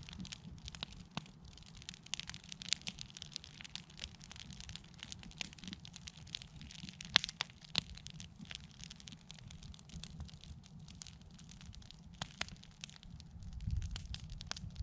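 Wood campfire crackling, with irregular sharp pops, the loudest about seven seconds in, over a low steady rumble.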